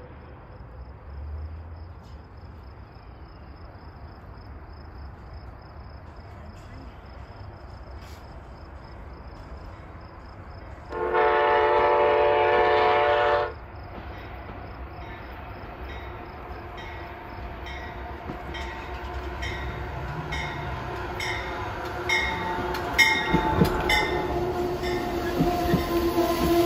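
A train horn sounds one long chord-like blast lasting about two and a half seconds, a little before halfway. Then the train's running noise grows steadily louder, with the wheels clicking rhythmically over rail joints toward the end.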